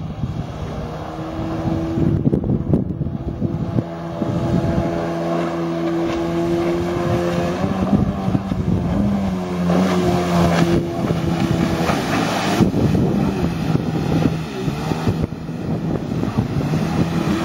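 Jet ski engine running steadily, its pitch lifting a little about halfway, with wind buffeting the microphone.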